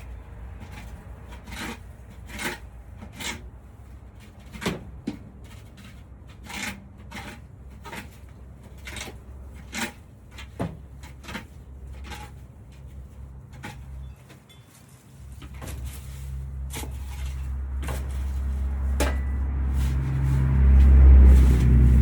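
Irregular sharp clicks and knocks, then a low vehicle rumble that builds from about two-thirds of the way in and is loudest near the end.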